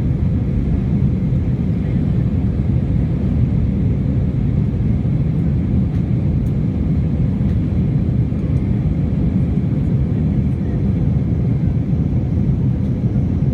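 Steady low roar of an Airbus A320-family airliner's jet engines and airflow heard inside the cabin in flight, with a faint steady hum.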